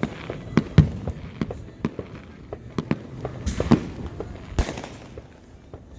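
Fireworks going off: a string of sharp bangs and pops at irregular intervals, the loudest about a second in and about four and a half seconds in.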